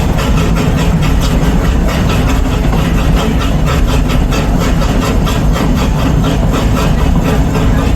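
Narrow-gauge park train running along under way: a loud, steady rumble with a fast, even beat of clatter.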